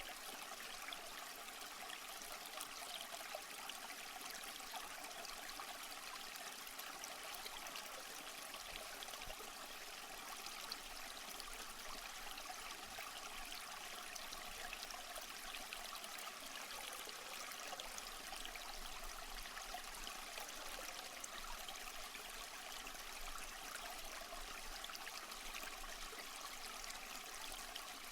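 Steady trickling and splashing of running water from a backyard water-garden stream.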